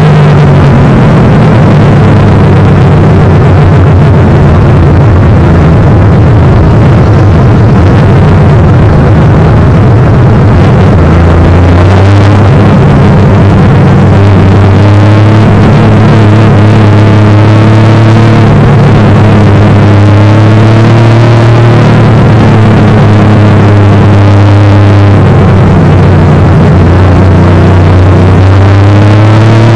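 1971 Triumph GT6 race car's straight-six engine running at low revs as the car drives slowly, heard loud from inside the cabin. The engine note shifts a little in pitch a few times.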